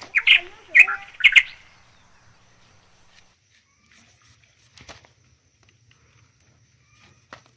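A bird calls three times in quick succession in the first second and a half, short chirps that glide in pitch. Then a knife cuts into a raw root tuber, a sharp stroke about five seconds in and another near the end.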